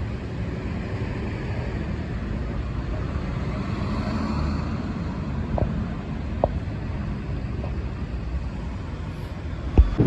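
Road traffic noise: a steady vehicle rumble with tyre hiss, swelling as a vehicle passes about four seconds in, and a sharp knock near the end.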